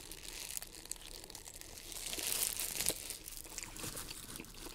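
Food wrapper paper crinkling and crackling as it is handled close to the microphone, loudest about two to three seconds in.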